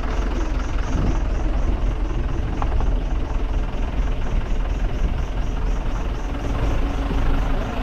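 Vehicle driving, with a steady low rumble of engine and road noise. A faint high pulsing repeats about four to five times a second.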